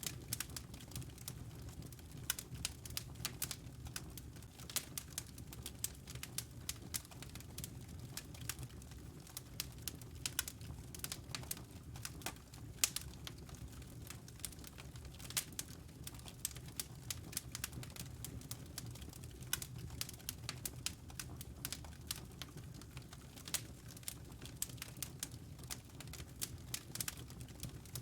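Wood fire crackling steadily: many irregular sharp pops and snaps over a low, even rumble of burning.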